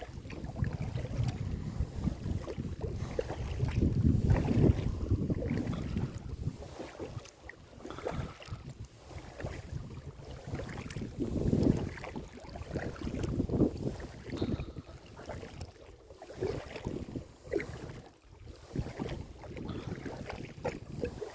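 Kayak moving on a lake: water splashing and lapping in uneven swells as it is paddled, with wind buffeting the microphone.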